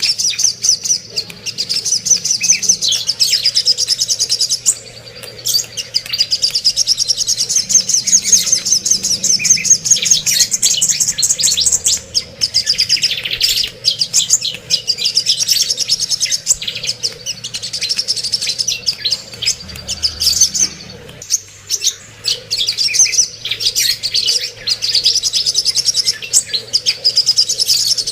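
Cucak kombo songbird singing a long, fast, high-pitched chattering song with a few short pauses, played as a training recording to coax silent birds into singing.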